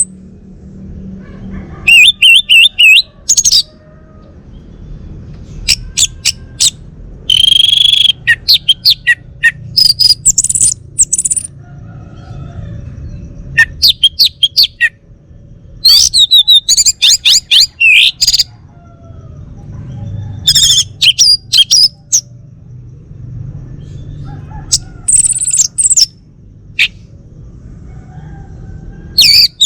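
Male orange-headed thrush singing: loud bursts of quick, varied whistled and twittering phrases, each a second or two long, with short pauses between them.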